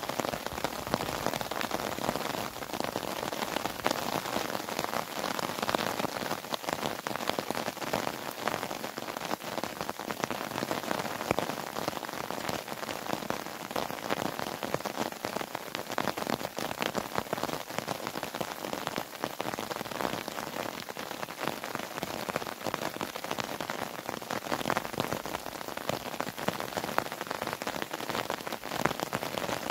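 Steady rain falling: a dense even hiss of many drops, with close individual drop hits standing out in quick succession.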